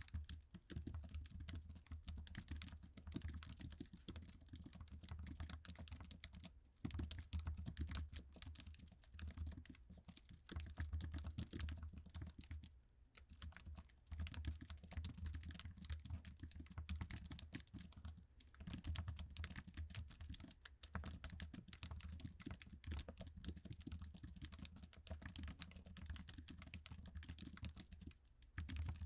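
Steady, fast typing on an Apple iMac's standard low-profile keyboard: a dense run of soft key clicks, with brief pauses a little before 7 seconds, around 13 seconds and near the end.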